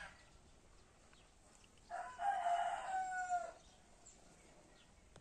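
A rooster crowing once, about two seconds in: one drawn-out call of about a second and a half that drops in pitch at the end.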